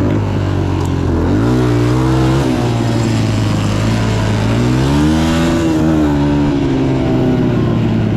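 Motocross bike engine running under load as it is ridden, revs climbing about a second in and again around five seconds, then easing off.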